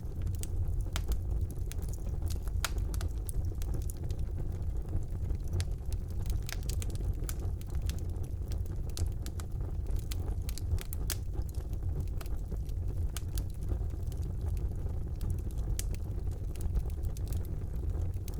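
Wood fire burning in a fireplace: a steady low rumble of the flames with frequent sharp crackles and pops from the burning logs, scattered irregularly throughout.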